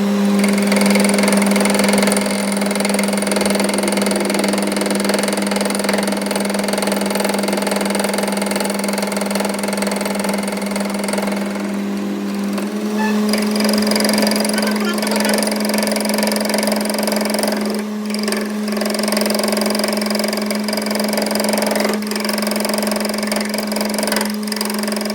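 A motor running steadily with a constant hum, its pitch and overtones shifting slightly about halfway through.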